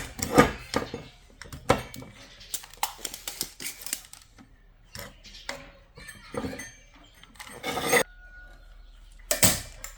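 Irregular clinks, knocks and scrapes of metal tools and parts being handled during amplifier repair work. There is a longer scrape about eight seconds in and a louder knock near the end.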